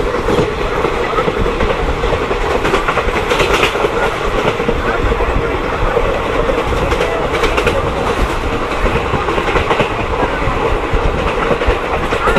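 Passenger train running on the line, a steady rumble with the wheels clicking irregularly over rail joints.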